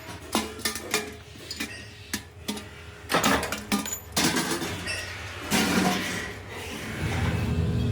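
Metal pieces of a scrap-built tea kettle being handled and struck: a run of separate, irregular metallic knocks and clinks. A steady low hum comes in near the end.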